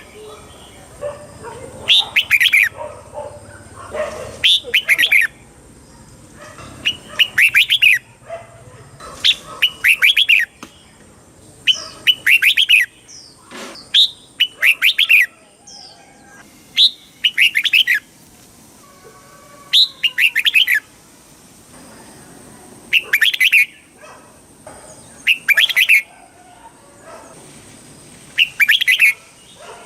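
Red-whiskered bulbul singing: short, loud, warbling phrases repeated about every two seconds.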